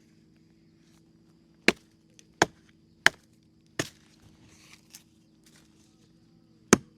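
Wood being chopped: a quick run of four sharp strikes about two-thirds of a second apart, then a single strike near the end.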